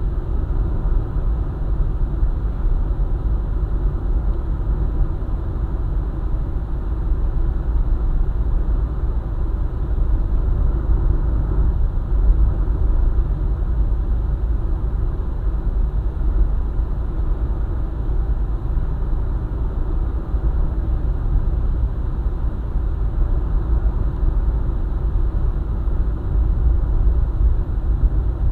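Steady low rumble of a car driving along a highway: tyre and engine noise at an even cruising level.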